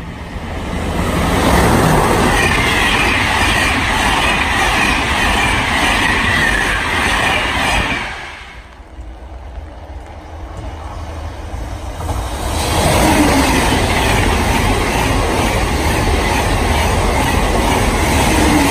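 Double-deck regional electric train passing close by, with a steady high-pitched squeal from its wheels. Partway through, a TGV high-speed train approaches and passes at speed, its carriages rushing by.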